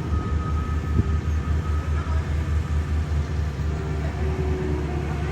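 Heavy diesel paving equipment running close by, a steady low rumble with a fast, even pulse, and a single knock about a second in.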